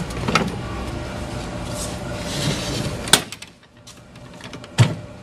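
Fire engine equipment compartment being handled and shut: a sharp latch click about three seconds in and a heavier knock with a low thump near the end.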